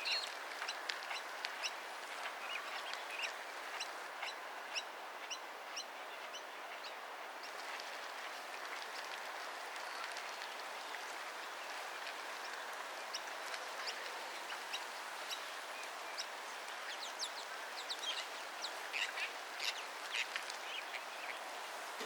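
Birds calling by a lake: many short, scattered chirps over a steady outdoor hiss, busiest at the start and again near the end.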